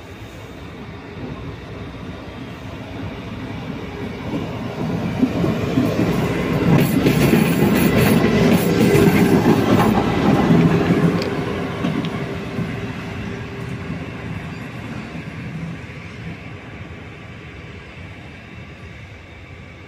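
A train passing at close range. Its running noise builds, is loudest about halfway through, then fades away, with a steady hum heard at the loudest point.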